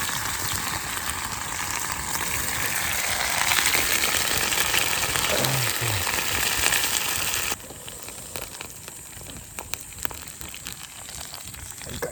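Yakiniku meat sizzling over a campfire, a steady hiss that drops off suddenly about seven and a half seconds in, leaving a quieter sizzle with small clicks.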